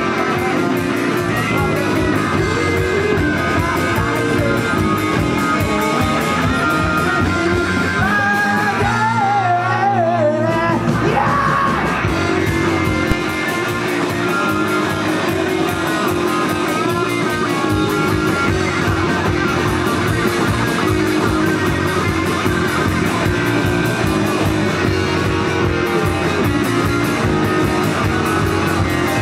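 Live rock band playing: electric guitars, bass and drums with singing. About nine seconds in, the bass and drums thin out briefly under a bending lead line, then the full band comes back in.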